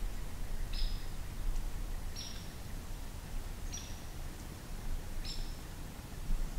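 A small songbird calling a single short, high, down-slurred chip note, four times at even intervals of about a second and a half.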